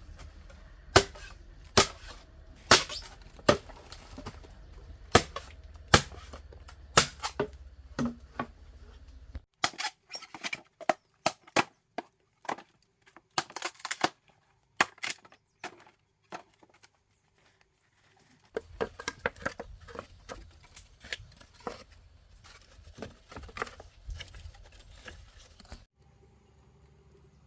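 A blade chopping bamboo: sharp strikes about one a second, then quicker, lighter knocks and cracks.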